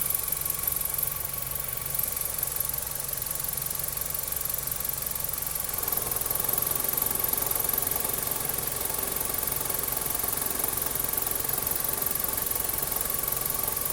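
Car engine idling in Drive with the headlights on, with a shaking, vibrating drone that grows stronger about six seconds in. The vibration comes only with the car in Drive and the headlights on.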